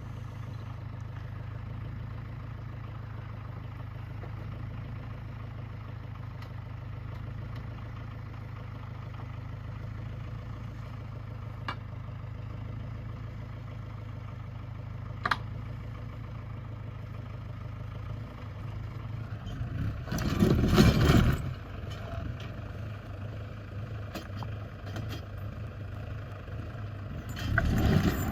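A vehicle engine running steadily at a low idle. There are two brief clicks in the middle and two loud bursts of rushing noise, one about twenty seconds in and one near the end.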